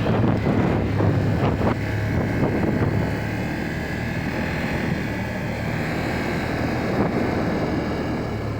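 ATV engine running steadily as the machine is ridden, with wind buffeting the microphone.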